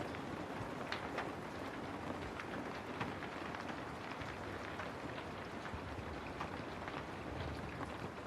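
Steady rain falling, with a dense patter of drops and individual drips landing close by.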